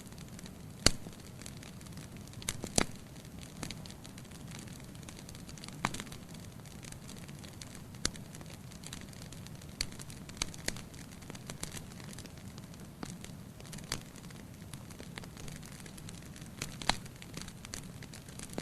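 Wood fire burning in a fireplace: a steady low flame hiss with scattered sharp crackles and pops of burning logs, the loudest pops about a second in and near the end.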